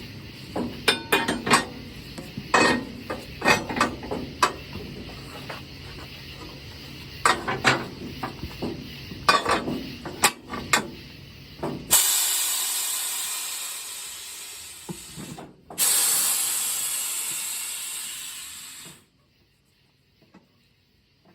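Metal clanks and clicks of tire-mounting tools working a tire onto a wheel on a manual tire changer. About twelve seconds in, compressed air hisses loudly in two long blasts, each fading away, with a short break between them.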